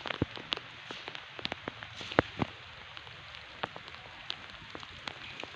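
Rain falling: a steady hiss with drops tapping irregularly and sharply on nearby surfaces.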